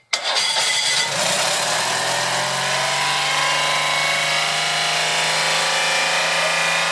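Citroën 2CV's air-cooled flat-twin engine starting suddenly, its pitch rising for about a second before it settles into a steady run.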